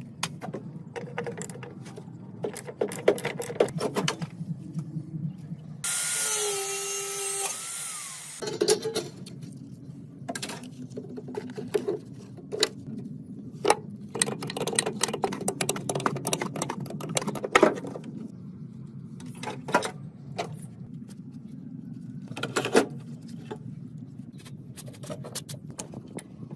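Workshop work on a jeep: scattered metallic clicks and knocks from hand tools over a low hum, with a power tool running for about two seconds some six seconds in.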